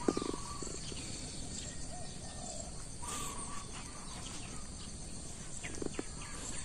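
Birds chirping: scattered short, faint calls over a steady outdoor background, with a couple of soft clicks near the start and again near the end.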